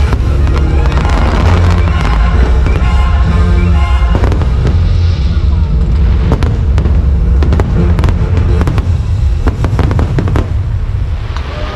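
Fireworks bursting and crackling over loud show music with heavy bass, with a quick run of sharp bangs in the middle.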